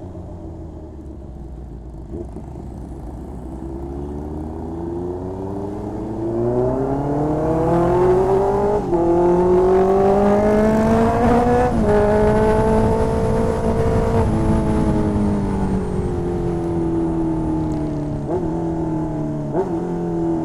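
2020 Honda CB650R's inline-four engine through an aftermarket exhaust, accelerating hard through two upshifts, where the pitch drops about nine and twelve seconds in, then holding speed. Near the end it slows, with falling pitch and two short revs as it downshifts.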